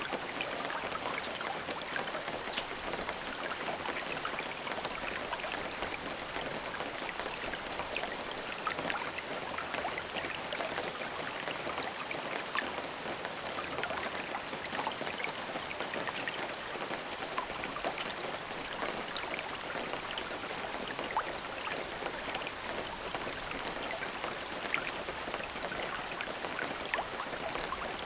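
Steady rainfall, an even hiss of rain with many individual drops pattering and ticking on a surface.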